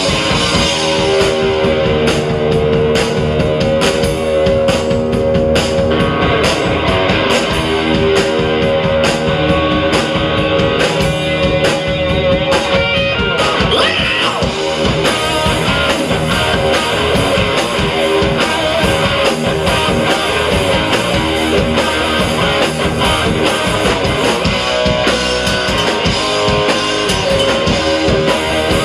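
Live rock band playing: guitar and bass over a drum kit keeping a steady beat.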